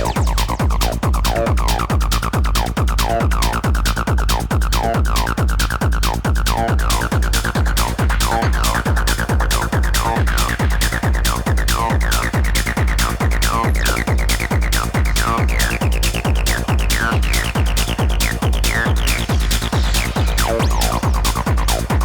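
Techno track with a steady kick drum on every beat under a synth line that sweeps gradually upward, building, then falls back near the end.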